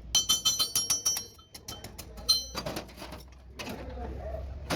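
A fast run of sharp ringing taps, about ten in a second, then a pause and another brief ringing tap a little past two seconds in, with a few duller knocks after.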